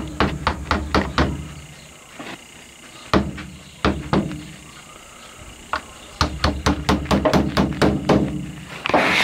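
A small plastic washing-machine inlet filter being tapped and knocked hard to shake out clogging algae and debris: clusters of sharp taps, several a second, with short pauses between them, and a brief hiss of air near the end.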